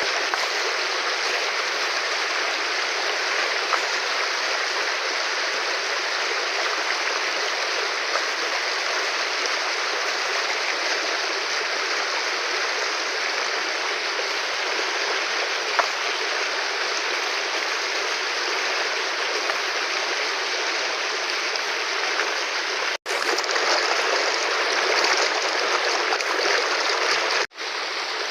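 Fast-flowing river rushing in a steady, even wash of water noise. Near the end it cuts out for an instant twice, and it is a little louder in between.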